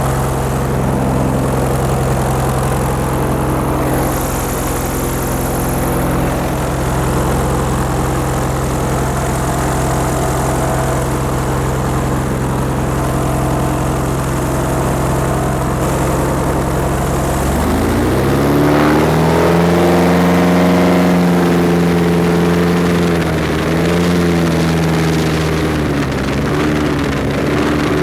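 Airboat engine and propeller idling steadily, then revving up about two-thirds of the way through and running faster, with brief dips in speed near the end.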